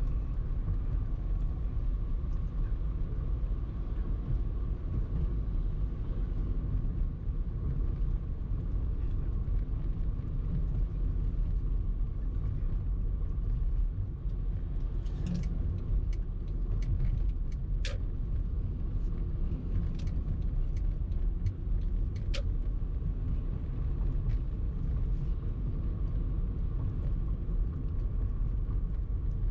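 Car driving, heard as a steady low rumble of engine and road noise, with a scatter of small sharp clicks about halfway through.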